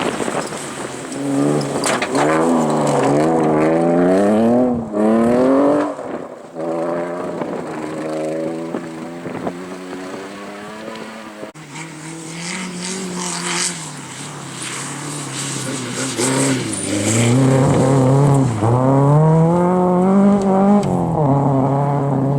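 Rally car engine revving hard, its note climbing and then dropping back with each gear change, with a few sharp cracks. It happens twice: a second car, or a second run of revving, starts about halfway through after a short lull.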